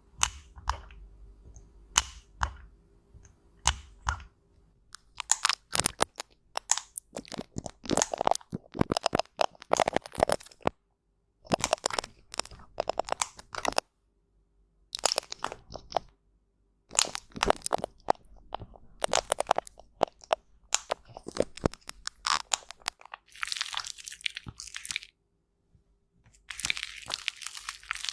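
Cosmetics being crushed and broken, likely pressed powder or blush: a few separate sharp clicks in the first seconds, then dense bursts of crunching and crackling. These are broken by several abrupt cuts to silence, with hissing scraping near the end.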